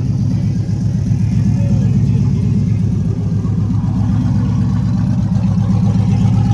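Street stock Dodge Ram mud truck's engine running at a steady idle, with a rapid, even low exhaust pulse.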